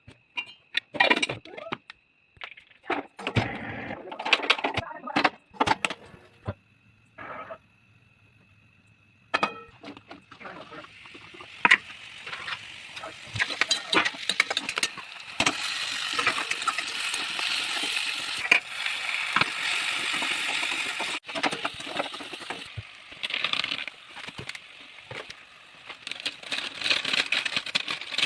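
Cooking sounds in a pan: a few clicks and knocks of utensils, then from about ten seconds in a steady crackling sizzle of food frying in hot oil.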